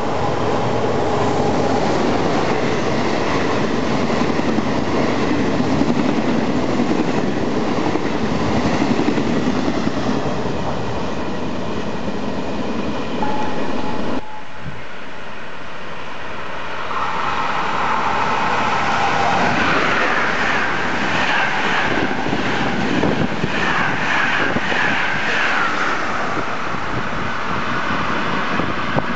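Electric trains passing through a station: a locomotive-hauled passenger train running past with dense wheel-on-rail noise and clatter. After a short steady tone and a sudden break near the middle, a second train approaches and passes with rising rail noise and high whining tones that slide in pitch.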